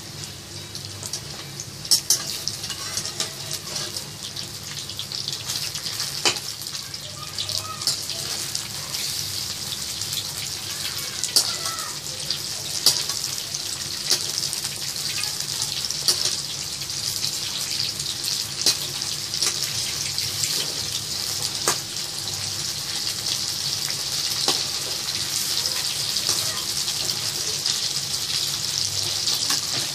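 Marinade-coated prawns deep-frying in hot oil in a steel kadhai: a steady sizzle that grows a little louder later on, with sharp pops and clicks every few seconds as a metal spatula turns them in the pan.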